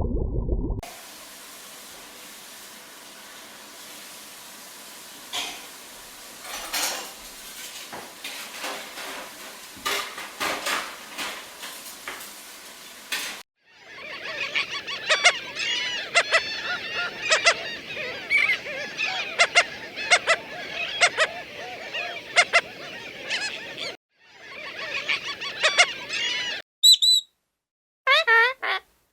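Animal calls in several short separate clips: first a faint hiss with scattered clicks, then from about halfway many rapid high chirps and squeaks mixed with clicks, broken off by brief gaps near the end.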